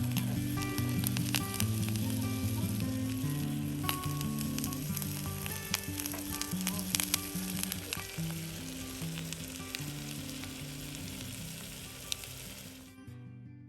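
A dense sizzling crackle over low held notes that change every half second or so, the whole fading out and stopping near the end.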